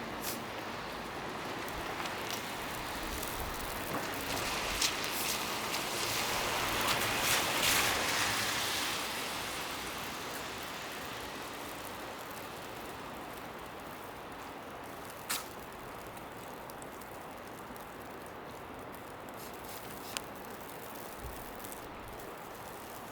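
Street ambience on a wet, snowy city street: a steady hiss of distant traffic and wet road. A vehicle passes, swelling and fading about five to ten seconds in, with a few sharp clicks scattered through.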